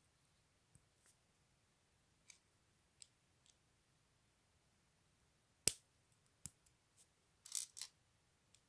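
Small plastic LEGO pieces being handled and pressed together: scattered light clicks, one sharp click a little before six seconds in, and a short clatter near the end.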